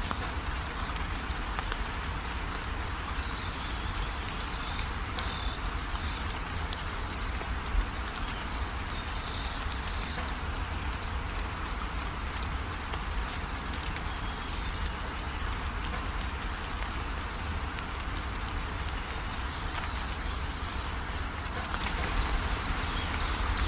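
Steady rain falling, with birds chirping high above it throughout and one brief louder tap about eight seconds in.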